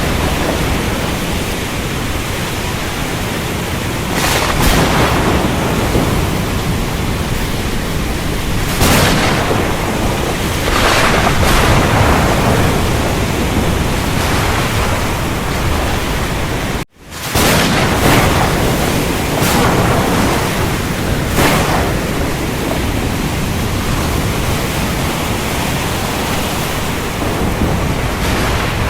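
Thunderstorm: steady heavy rain hiss over a low thunder rumble, with several brief louder swells. About two-thirds of the way through, the sound drops out for an instant and comes straight back.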